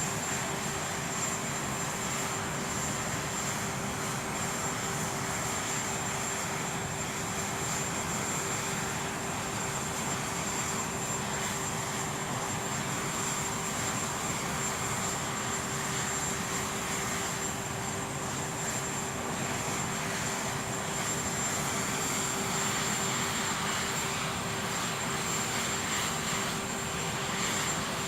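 Aircraft engines running steadily: a constant noise with an unchanging low hum and a high, thin whine.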